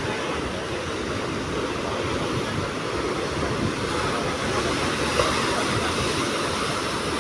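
Train running past, a steady rumble and rush that holds level throughout.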